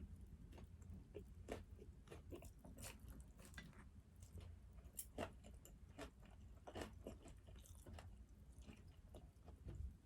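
Faint, close-miked chewing of food: an irregular string of short wet clicks and smacks from the mouth.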